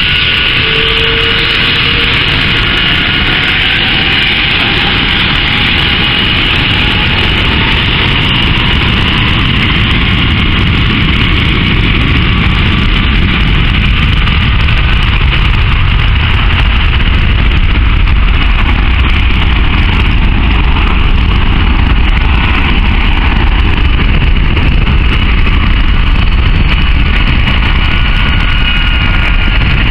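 Airbus A330-300's twin jet engines running at high departure thrust: a steady loud roar with a deep rumble and a high fan whine, swelling slightly midway.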